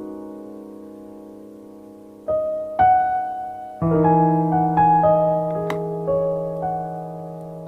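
Background piano music: a held chord fades out, then new notes come in a little over two seconds in and a slow melody carries on over sustained chords.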